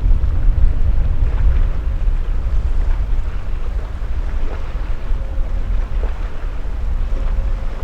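Wind buffeting the microphone: a heavy, uneven low rumble that eases slightly toward the end.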